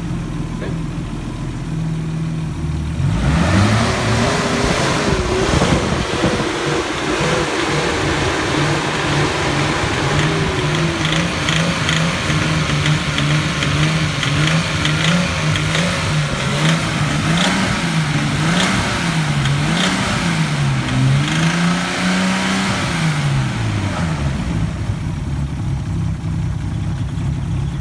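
Nissan RB20DET turbocharged straight-six idling, then revved about 3 s in and held in the low-to-mid range with the revs swinging up and down, before dropping back to idle near the end. A knocking noise comes in at about 2,000 rpm and goes away at 2,500 rpm. Its cause is unknown to the owner, who suspects rod knock, spark knock or lifter knock and has already ruled out the coils by swapping them.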